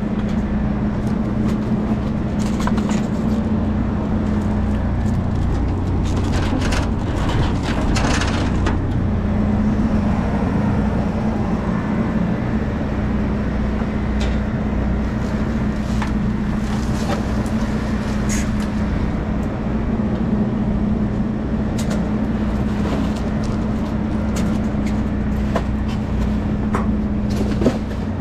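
A vehicle engine idling with a steady low hum, with scattered knocks and rattles of junk being dug through in a dumpster.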